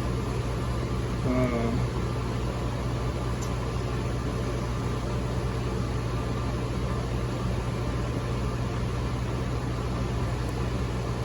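Steady machine hum and air noise of running equipment, with a strong low electrical hum. A brief pitched tone, like a short hum or murmur, about a second in.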